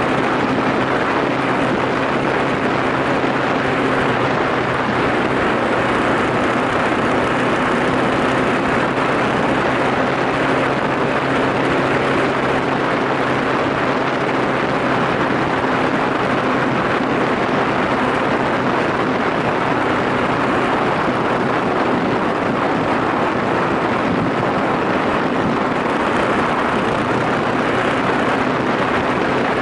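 Yamaha SRX400's single-cylinder four-stroke engine running at a steady pitch while the motorcycle cruises at constant speed, under heavy wind and road noise.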